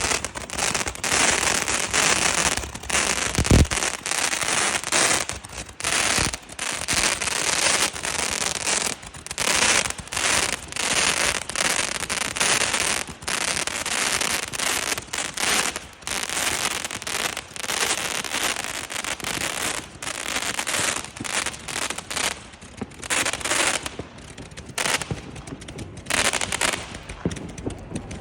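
Fireworks going off in a long run of dense crackling bursts, about one or two a second, thinning and getting quieter near the end.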